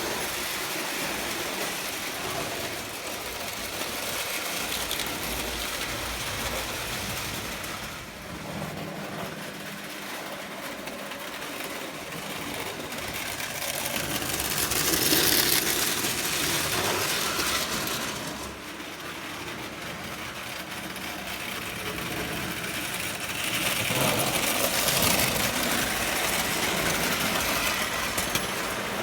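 Lionel O gauge electric toy train running on its track: the motor whirs and the wheels clatter along the rails. It swells louder twice, about halfway through and again near the end, as the train passes close.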